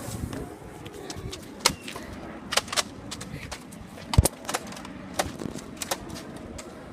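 A series of scattered sharp clicks and knocks, about six or seven, the loudest a thump about four seconds in.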